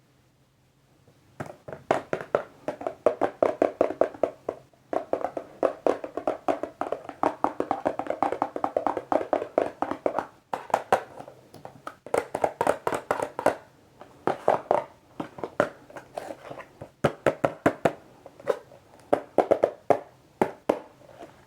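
Fingers tapping fast on a box, in runs of quick taps broken by brief pauses, starting about a second and a half in.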